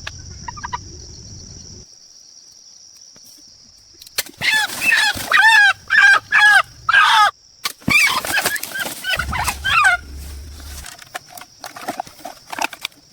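Chickens squawking in a rapid run of loud, harsh calls that starts about four seconds in and dies down after about six seconds, over a steady high-pitched whine.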